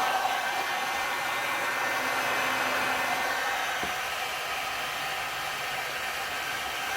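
Electric heat gun running with a steady blowing hiss.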